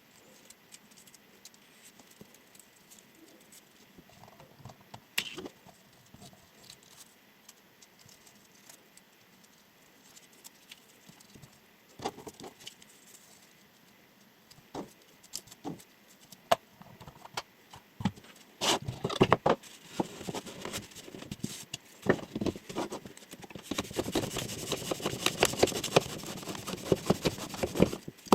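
Chef knife at work: scattered light taps and clicks at first, then about two-thirds of the way in a run of sharp knocks and scraping, turning near the end into a dense, fast rasping like a blade drawn through something crisp.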